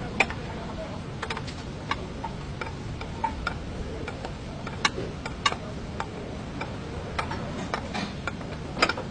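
Irregular sharp clicks and light taps, about two or three a second and unevenly spaced, over a steady low background noise: small tool and metal-part contacts during propeller shaft repair work.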